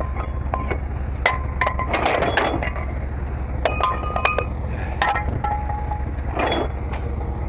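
Scrap metal auto parts clanking and clinking as they are handled, a string of irregular sharp knocks, some with a brief metallic ring, over a steady low hum.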